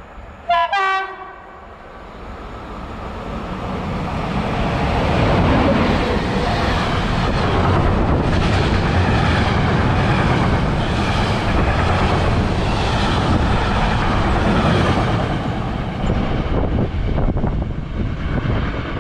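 EU07 electric locomotive sounding a short horn blast about half a second in, then a freight train passing close by: the rumble builds over a few seconds as the locomotive arrives and holds loud and steady as the covered wagons roll past with wheels clattering over the rails, easing a little near the end.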